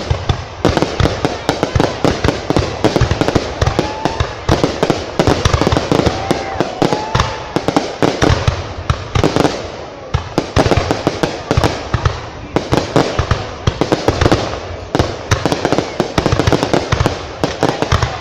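Fireworks display: a dense, continuous barrage of bangs and crackling explosions, several a second, with no let-up.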